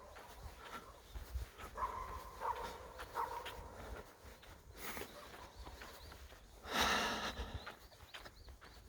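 Several short, distant animal calls in the first few seconds, with a brief noisy rustle around seven seconds in, over a low outdoor rumble of wind on the microphone.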